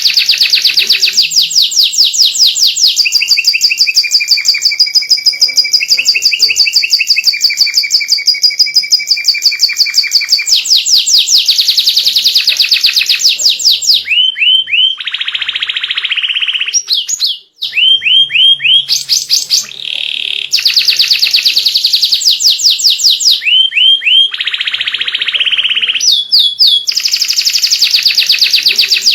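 White canary singing a long, continuous song made of fast trills of rapidly repeated notes, some high and clear, some lower and buzzier. There is a short break a little past halfway.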